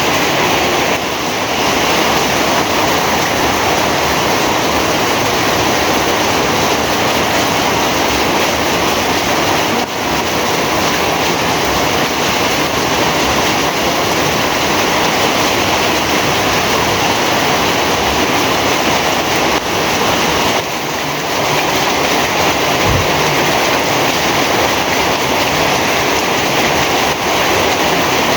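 Heavy rain pouring down in a steady, dense hiss that hardly changes, dipping slightly for a moment a few times.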